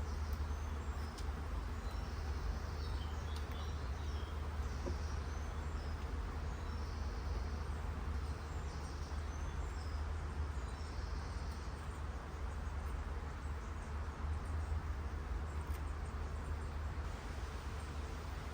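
Steady buzzing of a honeybee colony at an open hive while its frames are being lifted out, over a low rumble.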